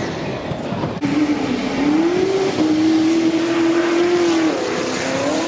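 A vehicle engine revving hard, jumping up about a second in and holding high revs for a few seconds before easing off near the end.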